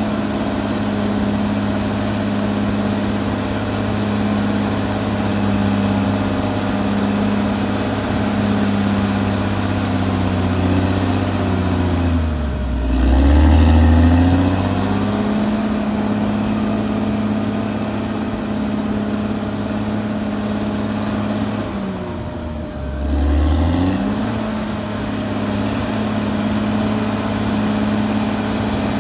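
Caterpillar D6R XL bulldozer's diesel engine running steadily at working speed. Twice its pitch sags and then climbs back, as the engine is loaded or throttled down and picks up again.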